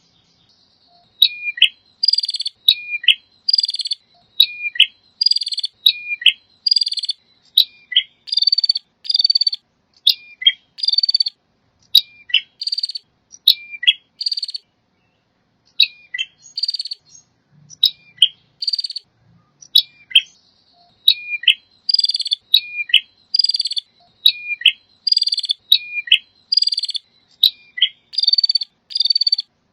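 Male prinia (prenjak) singing: a repeated phrase about once a second, each a short falling whistle followed by a buzzy, rattling burst, with a brief pause about halfway through.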